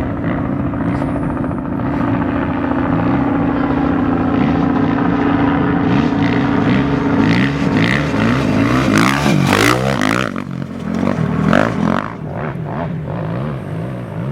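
Off-road race motorcycles and quads with engines revving and passing by. One passes close about nine seconds in, its pitch falling as it goes. A steady drone sits beneath the engines for the first half.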